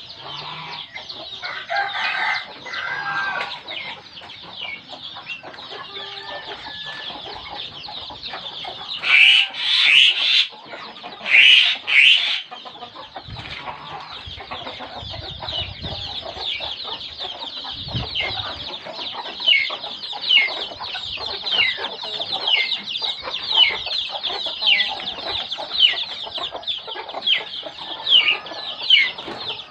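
Birds calling: many short downward chirps repeating about once a second, with a few loud harsh calls around the middle.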